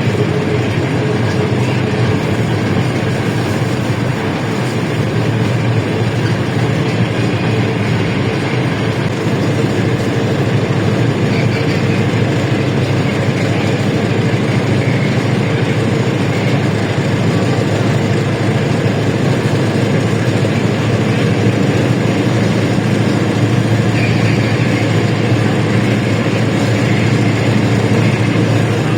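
LiAZ-677M city bus under way, heard from inside the cabin: its ZIL-375 V8 petrol engine runs steadily under the general road and body noise. The level stays even throughout.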